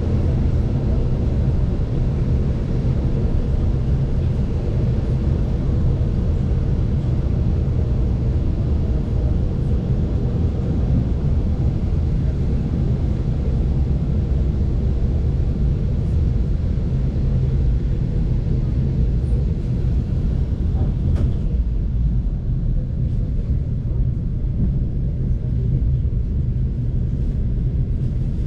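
Steady rumble of a moving passenger coach: wheels running on the rails mixed with the drone of the 2TE10U diesel locomotive hauling it, even in pitch and level throughout.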